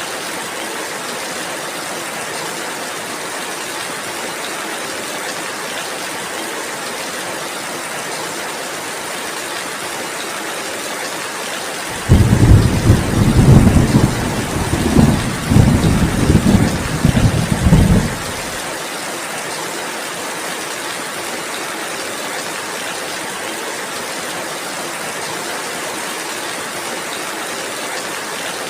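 Steady rain falling. A low rumble of thunder comes in suddenly about twelve seconds in, lasts about six seconds, then stops.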